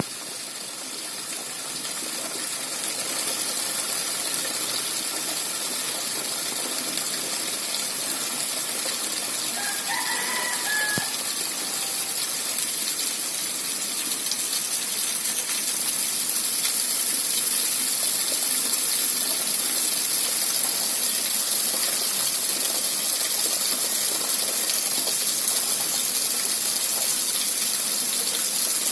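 Steady rain falling, an even hiss strongest in the high range that builds over the first few seconds. About ten seconds in, a brief bird call sounds once over it.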